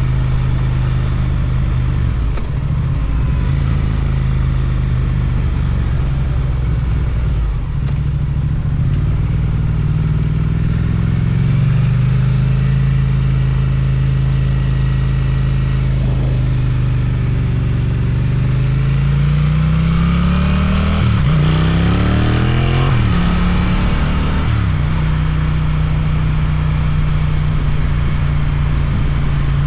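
Suzuki twin-cylinder motorcycle engine through an Akrapovic exhaust, heard while riding: it runs at a steady pitch with a couple of short dips early on, then falls and rises in pitch several times past the middle before settling steady again near the end.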